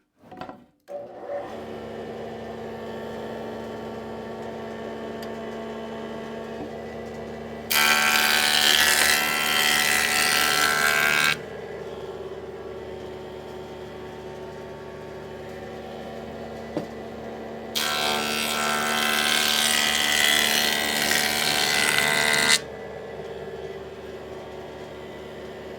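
Woodworking jointer starting up and running steadily, with two passes of a board across the cutterhead, each a loud cutting noise lasting three to five seconds.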